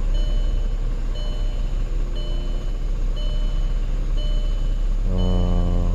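A car's warning chime beeping about once a second, over a steady low rumble from the car.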